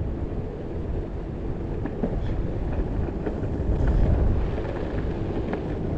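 A Possway T3 electric skateboard rolling along, giving a steady low rumble, mixed with wind buffeting the microphone. A few faint clicks come through.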